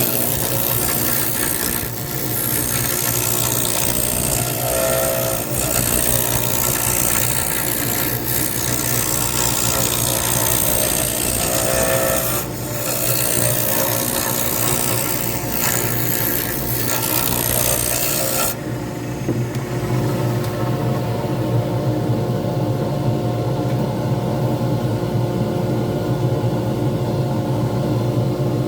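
Lathe spinning a cast resin pen blank while a turning tool cuts it with a steady scraping rasp; about two-thirds of the way through the cutting stops and only the lathe's motor hum carries on.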